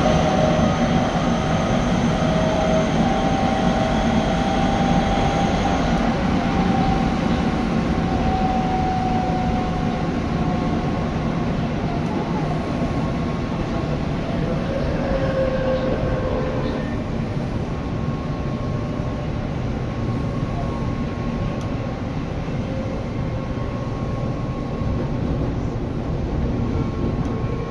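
Tobu 9050 series electric train running, heard from inside the car: a steady rumble of wheels on rail with a faint whine that drops slightly in pitch during the first few seconds.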